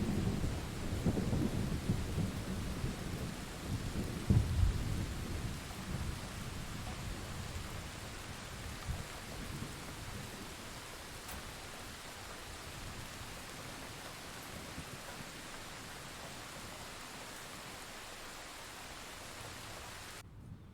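Steady rain with thunder rumbling and crackling over the first few seconds, loudest about four seconds in, then dying away into an even rain hiss. The sound cuts off suddenly just before the end.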